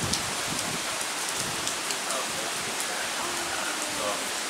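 Steady hurricane rain: a dense, even hiss with scattered ticks of drops hitting nearby surfaces.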